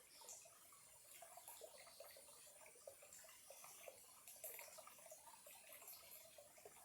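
Small clear stream trickling faintly, an even patter of tiny water blips and gurgles.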